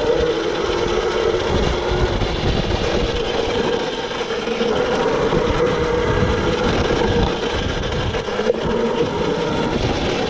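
Yozma IN10 electric dirt bike's motor whining steadily while riding along a dirt trail, over a rough rumbling noise. A lower whine that climbed as the bike pulled away fades out about two seconds in.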